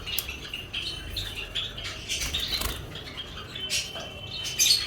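Small caged finches chirping and twittering in many short high calls, with a louder flurry near the end.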